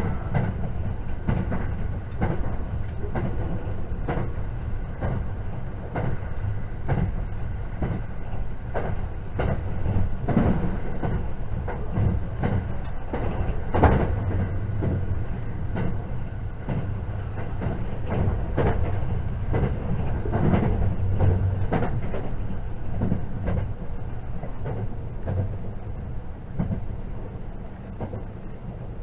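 Cabin sound of a JR 681 series limited express electric train running at speed: a steady low rumble with irregular clicks and knocks from the wheels on the track. The sharpest knock comes about fourteen seconds in.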